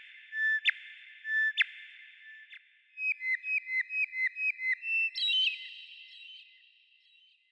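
Bird chirps: clear whistled notes in a heavy echo. A few single notes come first, then a quick run of short chirps about four a second starting about three seconds in, then a higher call a little past five seconds. The sound fades out near the end.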